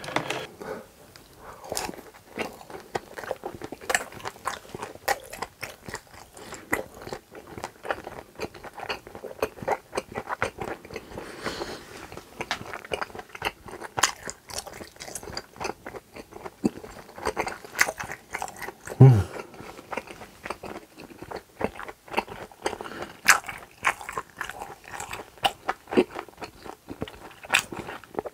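Close-miked chewing of grilled pork intestines (gopchang): a steady run of wet, irregular clicks, smacks and squelches of food being bitten and chewed. One brief low falling sound about two-thirds of the way in is the loudest moment.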